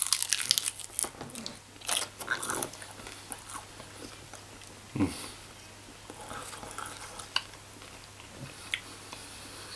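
A person biting into a roasted chicken drumstick and chewing it with the mouth closed: a dense run of crackling clicks in the first couple of seconds, a sharper click about five seconds in, then softer, sparser chewing.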